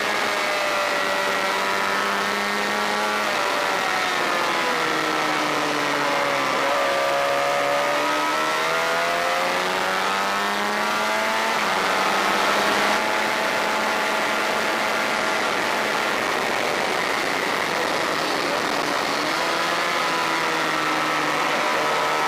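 Honda VFR400's V4 engine at race pace, heard from on board the motorcycle. The revs drop about four seconds in, climb again and hold high, then dip and rise once more near the end, over a steady rush of wind noise.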